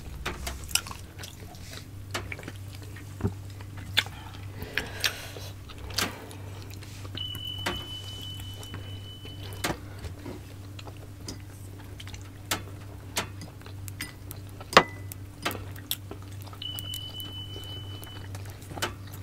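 Close-miked mouth sounds of eating steamed siomai dumplings: soft wet chewing with scattered sharp clicks and smacks, over a low steady hum.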